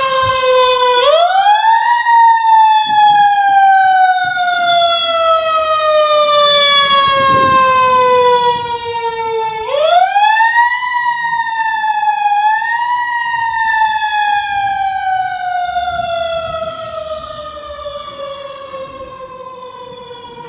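Federal Q2B mechanical siren on a fire engine. It winds up, then coasts slowly down in pitch. About halfway through it is wound up again with a short extra blip, then coasts down once more, fading near the end.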